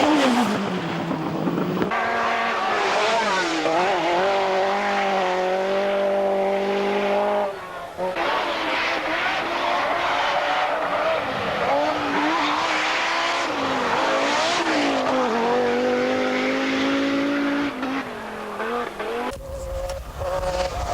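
Group B rally car engines at full throttle, the engine note climbing and dropping again and again through gear changes. The sound changes abruptly three times as one run cuts to another.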